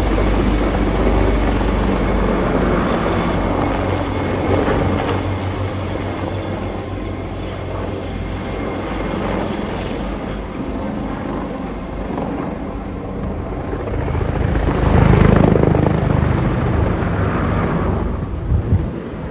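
Helicopter rotor and engine noise, steady, swelling louder about fifteen seconds in before easing again.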